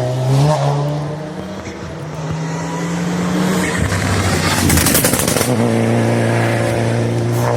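Racing car engine at a hillclimb, its note holding steady then shifting in pitch, with a loud crackling burst about five seconds in before the steady engine note returns.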